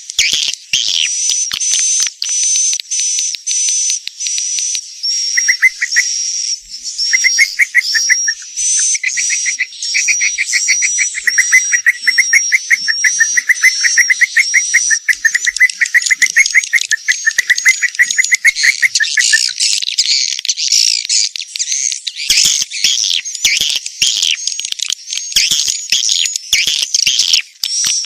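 Edible-nest swiftlets twittering in a dense, continuous chorus of overlapping chirps, the kind of call track played in swiftlet houses to lure the birds in. A fast, lower-pitched trill joins from about five seconds in and stops a little before twenty seconds.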